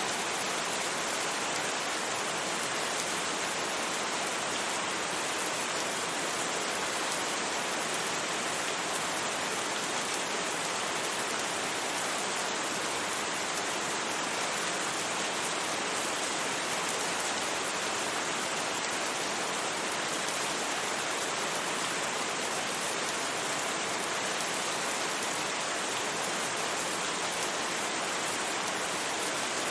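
Steady rain falling on a surface, an even hiss with no thunder and no changes in level.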